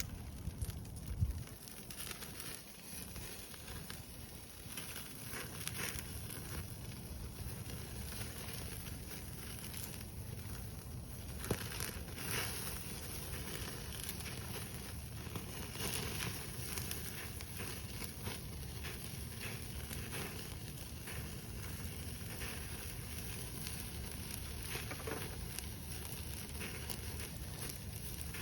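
Wood fire crackling in a bonfire stand, with irregular sharp pops scattered throughout.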